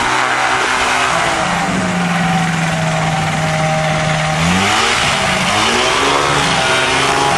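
Light aircraft's piston engine and propeller running as the plane taxis, holding a steady note, then climbing in pitch about four and a half seconds in as the throttle opens.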